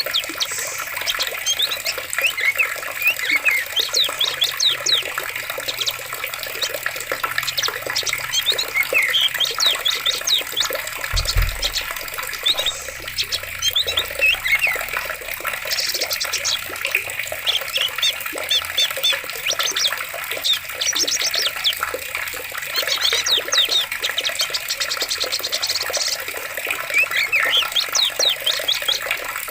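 Steady running water with many birds chirping over it in quick, repeated calls. A brief low thump comes about a third of the way through.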